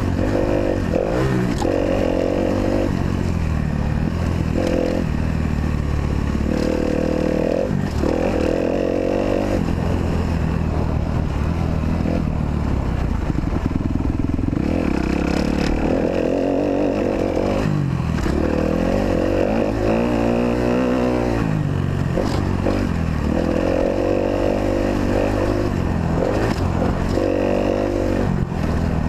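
Kawasaki KX250F four-stroke single-cylinder motocross engine being ridden hard, its pitch rising and falling over and over as the throttle is opened and closed.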